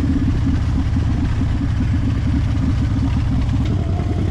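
Harley-Davidson Fat Bob's V-twin engine running steadily with a deep, even rumble.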